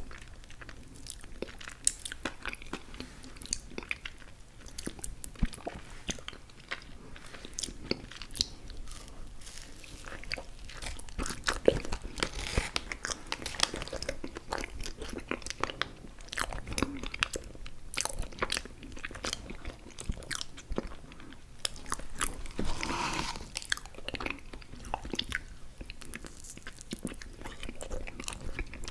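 Close-miked ASMR eating: a person biting and chewing food, with irregular moist clicks and crunches.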